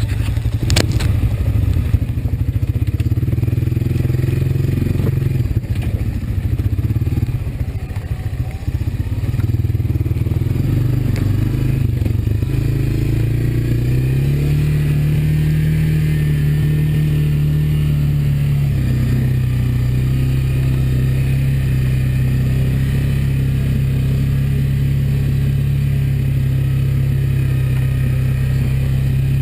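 Honda ATV's single-cylinder four-stroke engine running under way, with clatter and knocks over rough ground in the first several seconds. About halfway through the engine pitch rises and then holds steady.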